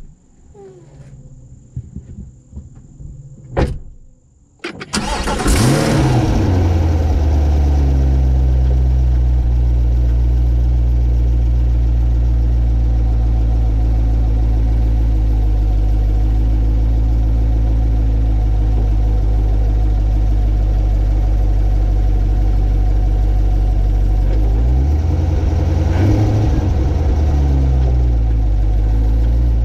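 A C8 Corvette's 6.2-litre LT2 V8 starts about five seconds in after a couple of knocks, flares up briefly and settles into a steady idle. The engine note wavers briefly near the end.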